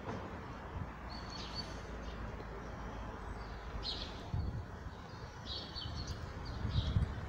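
Small birds chirping: short high calls every second or two. Under them runs a steady low rumble, with a few low thumps near the end.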